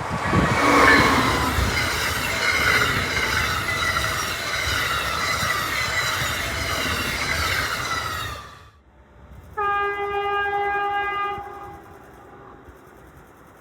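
An Amtrak train rushing past at speed, its rolling and wheel noise fading over about eight seconds. After a sudden break, a train horn sounds one steady note for about two seconds.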